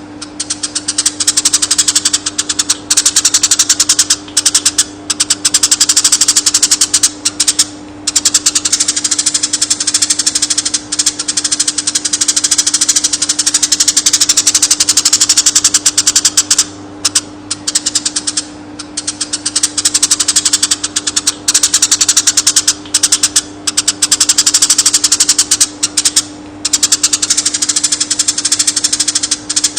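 Eurasian tree sparrow chirping in long, rapid rolling trills, broken by short pauses every few seconds, over a steady low hum.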